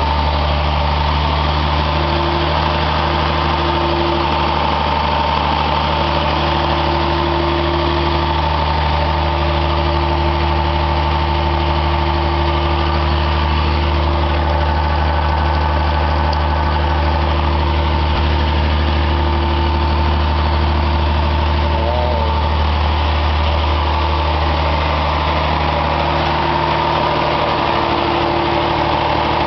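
Engine running steadily on biogas: a constant low hum with a steady higher whine over it.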